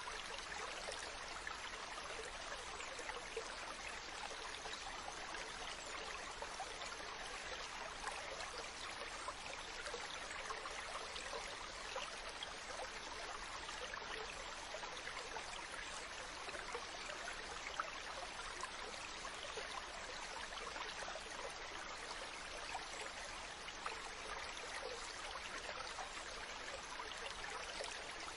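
Mountain stream running over rocks: a steady rush of water with fine splashing and trickling.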